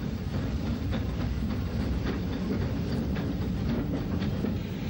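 Steam-hauled passenger train running along the line: a steady rumble of the carriages on the track, with now and then a faint click of wheels over rail joints.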